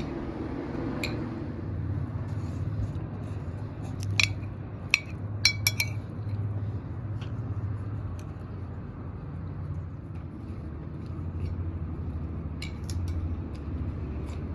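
Tableware clinking: a cluster of sharp clinks about four to six seconds in and a few more near the end, over a steady low hum.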